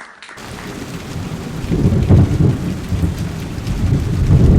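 Rain and thunder sound effect: a hiss of rain under a low rumble of thunder that swells over the first couple of seconds.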